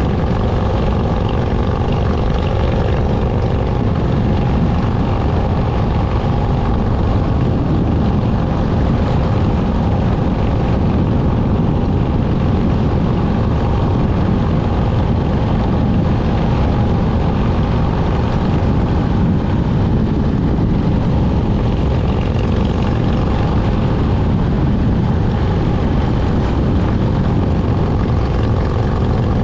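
Motorcycle engine running steadily while riding, a loud even drone with a constant low rumble and no change in pitch.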